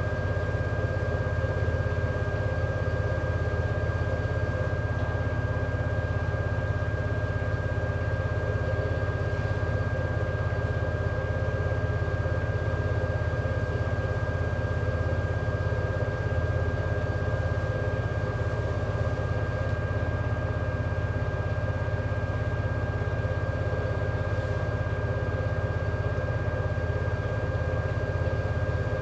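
LG inverter direct-drive washing machine in its final spin, the drum turning at speed with a steady hum and a thin, steady whine above it.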